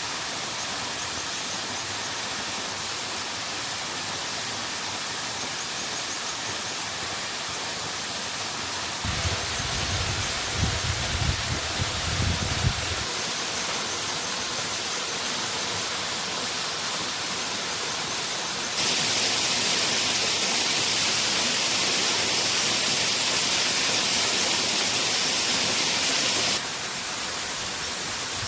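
Steady rushing water of a waterfall, a continuous even hiss whose loudness and brightness jump suddenly about a third of the way in, again past the middle and near the end. A low, uneven rumble rises under it for a few seconds about a third of the way in.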